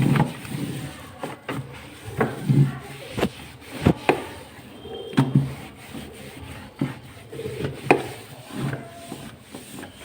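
A wet cloth rubbing and wiping over refrigerator surfaces, in irregular strokes with scattered knocks and clicks.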